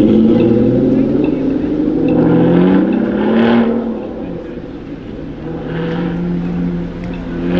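A sports car's engine accelerating away, its pitch climbing and then dropping once as it changes gear, then pulling steadily again.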